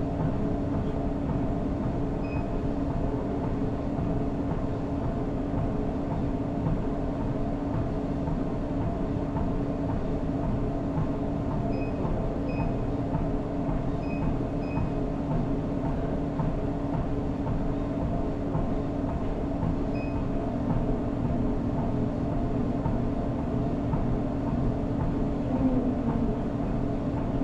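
Treadmill running under a runner: a steady mechanical drone from the motor and belt. Short high electronic beeps sound once early, several times in quick succession about halfway through, and once more later.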